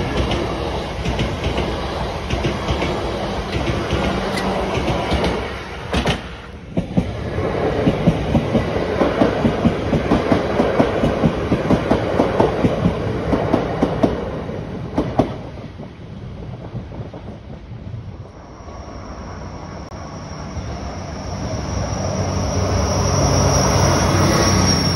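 Electric multiple units running over the level crossing, the first a Class 444, their wheels clattering over the rail joints in a quick, even beat. Near the end a diesel multiple unit comes closer, its engine hum growing louder under a thin, high wheel squeal.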